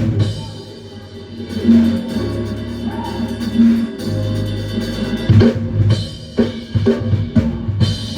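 Live band music with electric bass and drum kit: the bass holds long low notes, then the drums come in with a steady beat about five seconds in.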